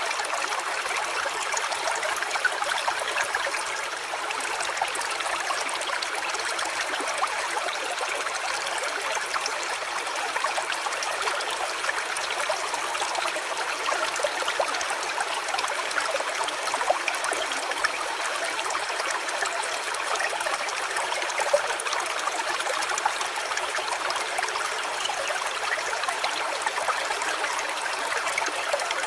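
A small stream running steadily, with continuous trickling and splashing water.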